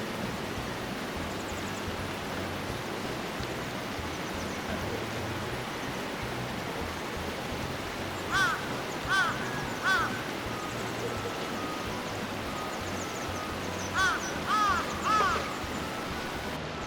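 A crow cawing: two runs of three harsh caws, the second run about five seconds after the first, over a steady background hiss.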